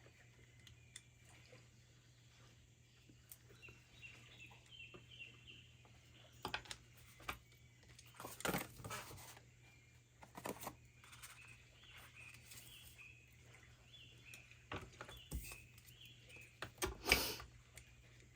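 Paper and craft materials being handled, rustling now and then with a few sharp clicks, loudest a little under halfway through and again near the end. Faint repeated bird chirps run behind the handling.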